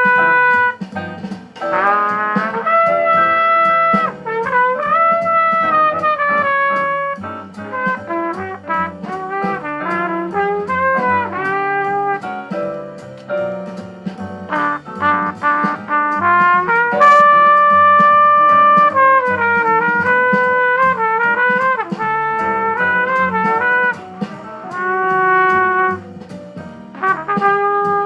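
Thomann C trumpet playing a jazz ballad line: held notes of a second or two, joined by scoops and bends in pitch.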